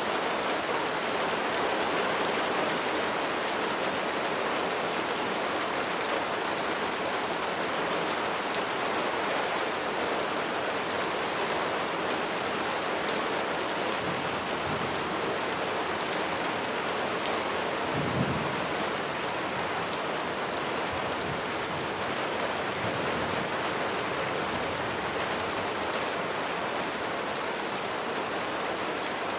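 Steady rain falling, with a low rumble of thunder swelling through the middle and peaking a little past halfway.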